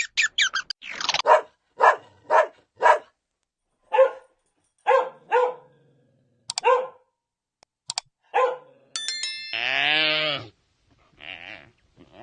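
Dog barking in a string of short single barks, spaced about half a second to a second apart. Near the end comes one longer, drawn-out animal call that dips in pitch and rises again.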